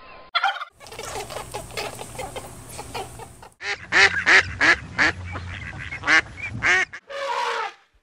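A flock of mallard ducks calling on water: a busy chatter of many birds, then a run of loud quacks about three a second. Near the end comes a short, different animal call.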